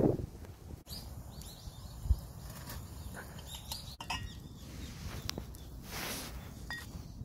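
Small birds chirping in short, quick calls, with light clicks and knocks of an enamel coffee pot and its lid being handled and one low thump about two seconds in.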